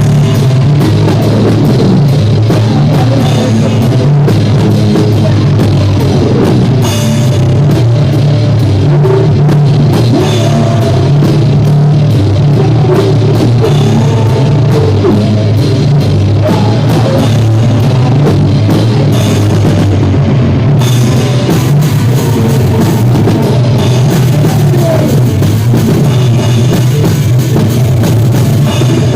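Live rock band playing loud with drum kit and guitar, the sound heavy and distorted in the low end.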